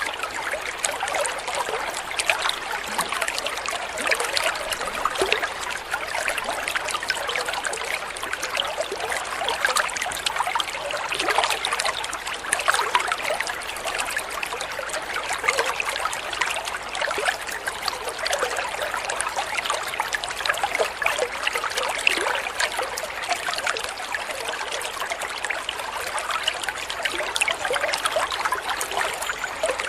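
Water trickling and splashing steadily in a continuous gentle flow, a dense patter of small splashes.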